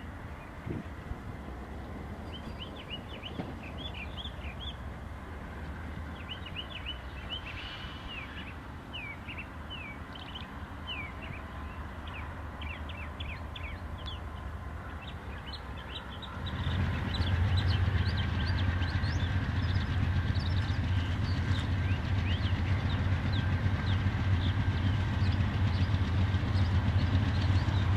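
Small birds chirping over a low, distant rumble. About sixteen seconds in, a diesel locomotive's low engine drone comes in and keeps growing louder as the train approaches.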